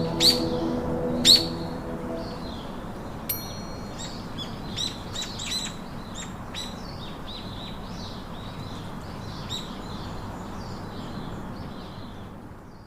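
Birds chirping, many short quick calls over a steady hiss, while music fades out in the first two seconds; everything fades away near the end.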